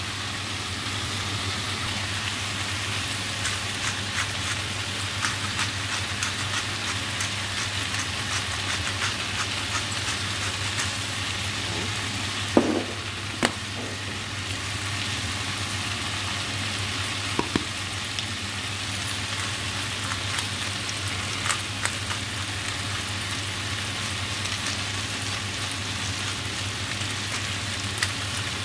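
Potatoes, mushrooms and onions frying in oil in a frying pan: a steady sizzle full of small crackles over a low steady hum, with a few sharper clicks around the middle.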